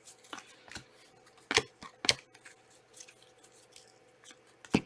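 Trading cards and their packaging being handled: a handful of sharp, separate clicks and light rustles, the loudest about one and a half, two and four and a half seconds in.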